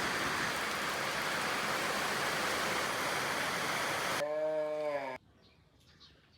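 Steady rain for about four seconds that cuts off suddenly, followed by a short pitched sound lasting about a second, and then faint bird chirps.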